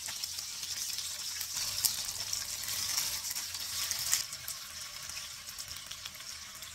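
Beef seekh kebabs sizzling as they shallow-fry in hot oil, a steady hiss with a few faint ticks as a spatula turns them.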